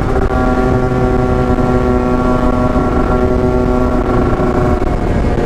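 Two-stroke motorcycle engine pulling on open throttle down a straight, holding steady revs, with wind rush over the microphone.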